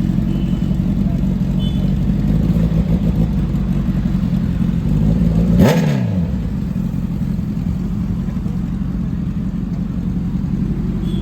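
A superbike passes close at speed about five and a half seconds in, its engine note falling sharply as it goes by. Under it runs a steady low rumble of engines.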